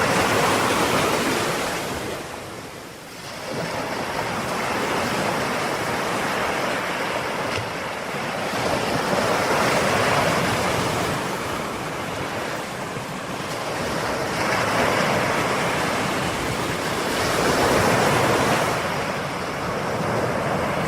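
Ocean waves breaking and washing on a shore, a steady rushing surf that swells and ebbs as each wave comes in, with a brief lull about three seconds in.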